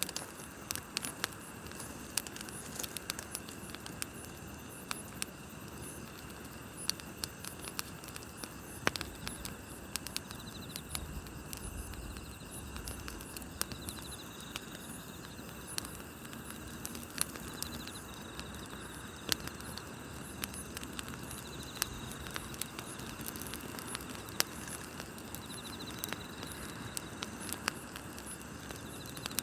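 Wood campfire crackling with frequent sharp pops and snaps, over a steady chorus of night insects chirping.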